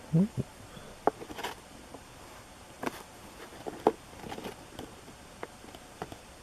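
Trading cards being handled in a small room: sparse light clicks and taps about a second apart, with faint rustling. A short low rising sound right at the start is the loudest event.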